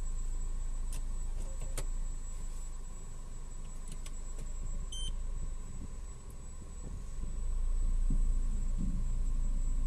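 Honda City GD8's four-cylinder i-DSI engine idling, heard from inside the cabin, with a few light clicks in the first two seconds. The low running noise grows louder about seven seconds in.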